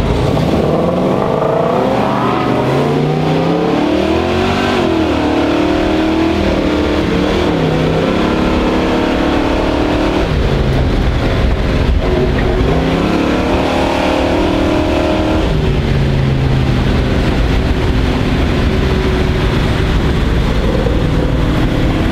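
Chevrolet Chevelle's engine heard from inside the cabin while driving. It revs up with climbing pitch and drops back several times as it shifts up through the gears, then runs steadily at cruising speed.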